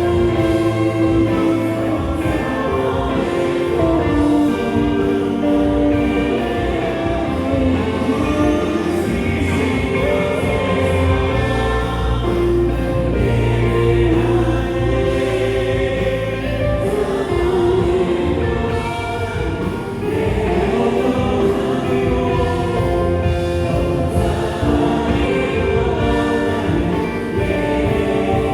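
Live worship band of drums, keyboard, electric guitar and bass guitar playing a praise song while a group of singers sing together.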